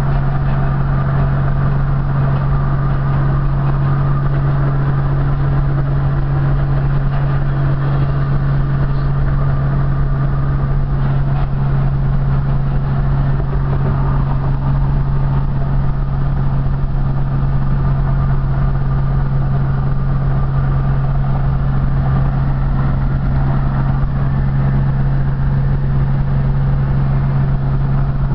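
1960 Studebaker Champ pickup running at a steady highway cruise: an unchanging engine hum over low road rumble.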